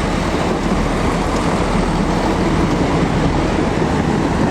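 Class 170 Turbostar diesel multiple unit running close by, a steady loud engine rumble with a low hum.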